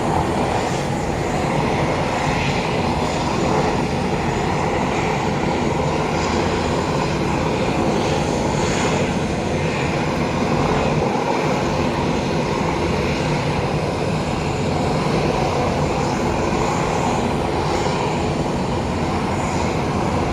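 Aircraft engines running with a steady, unchanging drone.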